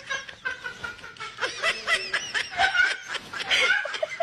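People laughing and snickering, in quick high-pitched bursts.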